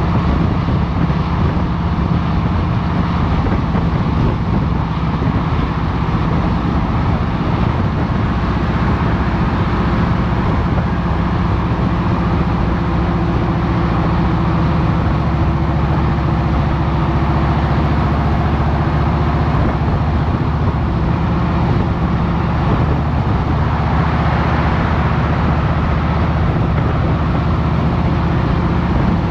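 2023 Harley-Davidson Road Glide Special's Milwaukee-Eight 114 V-twin running steadily under way, with its low engine note and road noise heard from a helmet-mounted camera.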